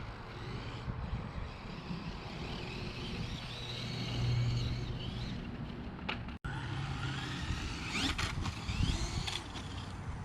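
Brushless electric motor of a radio-controlled Tamiya dump truck whining up and down in pitch as it is driven and throttled over rough ground, over a low rumble. The sound cuts out for an instant about six seconds in.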